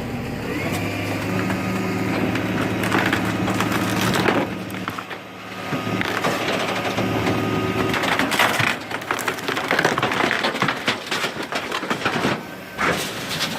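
Garbage truck's hydraulic compactor running with a steady hum, then wood cracking and splintering in quick snaps from about eight seconds in as the load is crushed.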